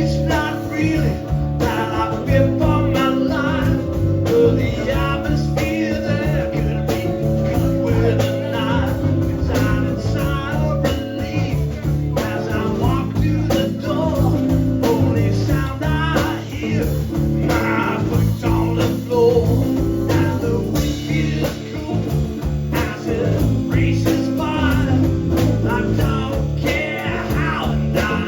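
Blues band music with guitar and singing.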